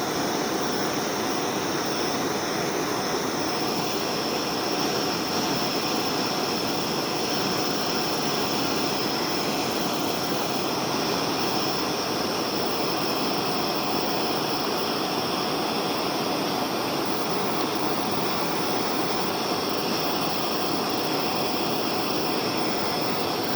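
Gas torch flame burning with a steady rushing noise and a thin high whistle, heating a pressurised two-stroke expansion chamber so that the dent pops out.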